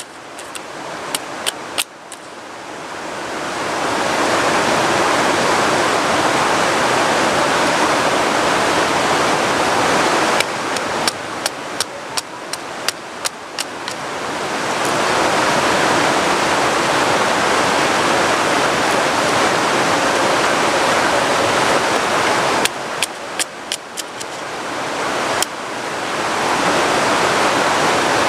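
Heavy rain falling in a steady rushing hiss, broken three times by a short run of sharp clicks.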